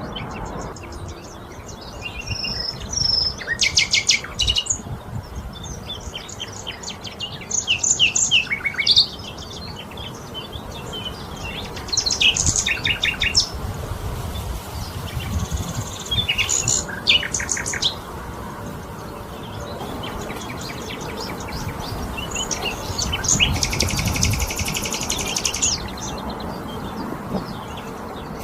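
Several songbirds chirping and calling, with bursts of rapid trills and, near the end, one long buzzy trill, over a steady low background rumble.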